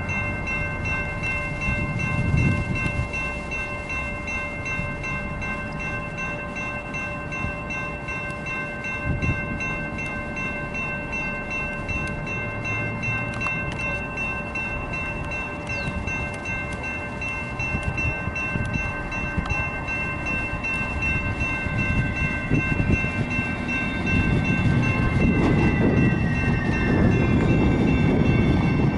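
A Sacramento RT light rail train pulling in. Its rumble grows louder through the second half, and a falling electric whine comes in as it slows. A steady high ringing of several tones runs throughout.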